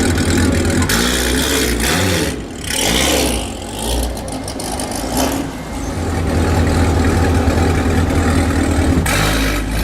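A drag Corvette's V8 engine revving up and falling back several times, then running steadily loud, with another rev near the end.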